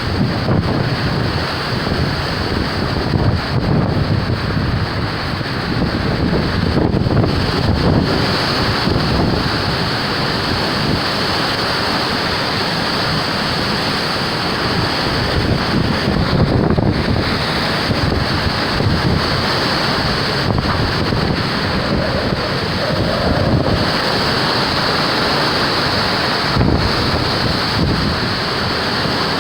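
Hurricane-force wind blowing hard and steadily in gusts, buffeting the microphone.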